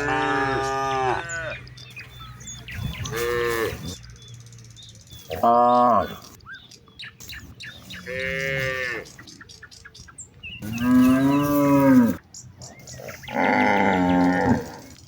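Cattle mooing, six long calls one after another, each lasting about a second, with faint bird chirps in the gaps.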